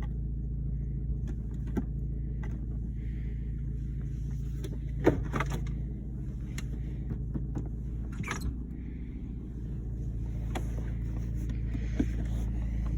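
A 2007 Jeep Compass's 2.4-litre four-cylinder engine idling steadily, with a few scattered clicks and knocks from handling the interior controls.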